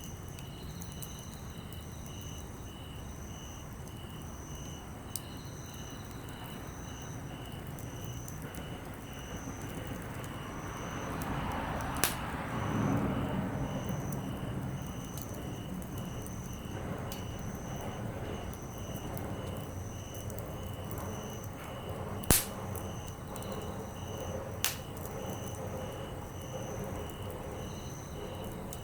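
Wood campfire burning, with a few sharp pops, the loudest about three-quarters of the way in, and a brief swell of fire noise a little before halfway. Crickets chirp in an even, steady pulse behind it.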